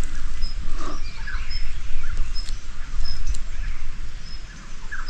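Birds chirping in the open: a short high peep repeating about twice a second, with a few lower falling chirps, over a steady low rumble.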